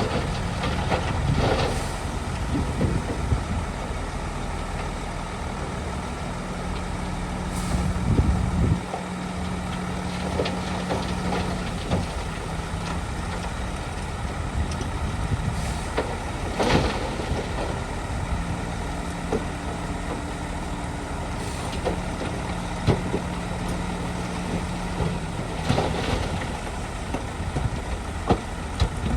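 Heavy diesel earthmoving machinery running steadily, with sharp knocks and clanks every few seconds.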